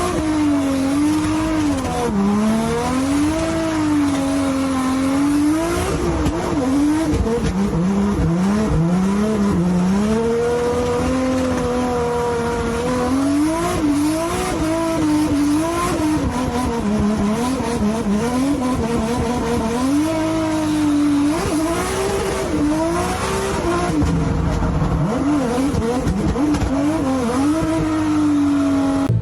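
BMW E30 engine revving up and down again and again while drifting, with the tyres squealing.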